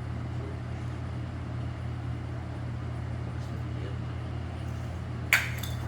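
Steady low machine hum in a workshop, with one sharp knock of steel near the end as a floor plate is fitted into the vehicle's body.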